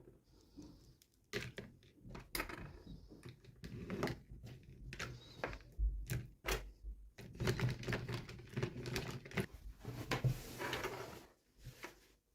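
Hands unboxing small plastic toys: irregular clicks, taps and light knocks of plastic, with bouts of rustling packaging.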